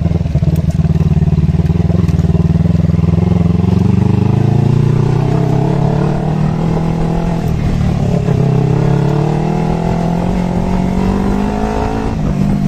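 Kawasaki Eliminator motorcycle engine running under way at low speed, its note rising, dropping back and rising again as the revs change.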